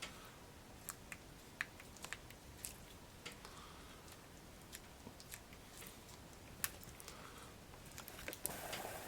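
Faint sticky squelches and scattered small clicks of thick wheel bearing grease being squeezed by hand into a tapered roller wheel bearing, the rollers and cage ticking as the bearing is worked around.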